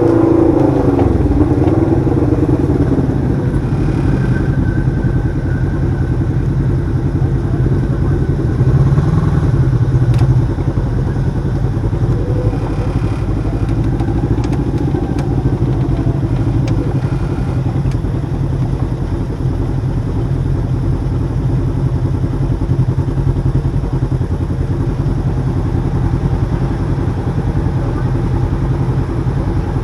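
Side-by-side UTV engine running steadily while driving along the trail, its note rising and falling a little with the throttle and swelling briefly about nine seconds in.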